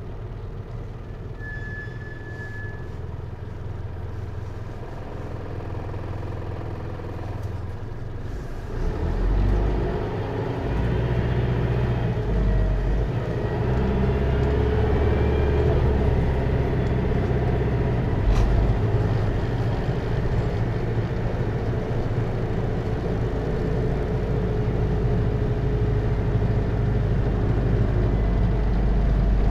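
Hino Liesse microbus's J05C four-cylinder diesel running at low revs. About nine seconds in it gets louder and deeper as the engine takes load, and it keeps running under load through the automatic transmission.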